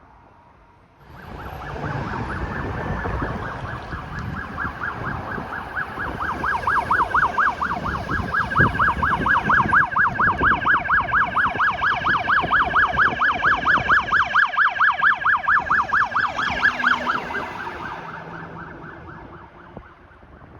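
Electronic siren of a responding emergency vehicle passing by, with its engine and tyre noise. It sounds a fast yelp, about four rises and falls a second, growing louder as the vehicle nears and fading as it goes away.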